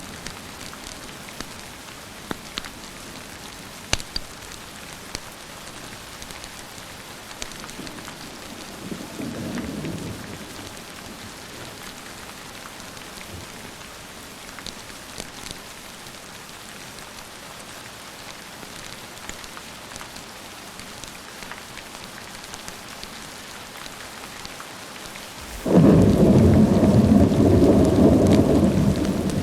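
Steady rain with scattered sharp crackles from a fireplace. A low rumble of distant thunder swells briefly about a third of the way in, and a loud, sudden thunderclap breaks near the end and keeps rumbling.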